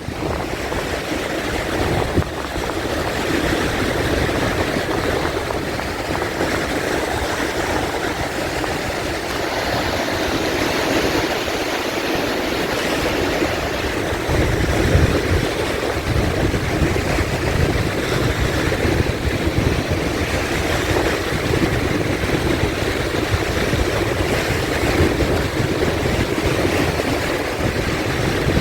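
Sea waves breaking and washing continuously, a steady rush of surf that swells and eases, with a heavier low rumble of breaking water around the middle.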